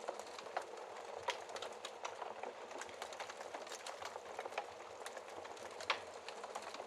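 Wood fire crackling in a fireplace: a steady hiss with frequent irregular sharp pops and snaps, the loudest about six seconds in.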